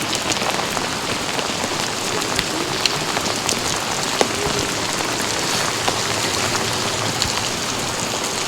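Heavy rain falling steadily, with scattered sharp drop hits close by.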